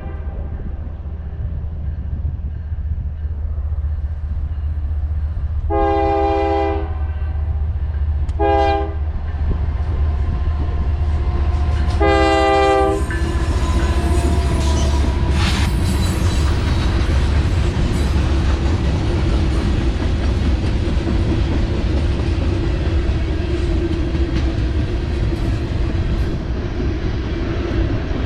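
Locomotive horn sounding a long blast, a short one and a final long one, the end of the standard grade-crossing signal, over the low rumble of the engine. From about halfway in, the train passes with a steady clatter of wheels on rail.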